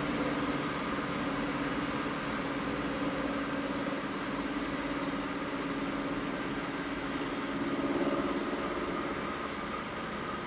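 Steady running hum of a train, with a steady mid-pitched tone over a mechanical rush, swelling slightly about eight seconds in. No horn sounds.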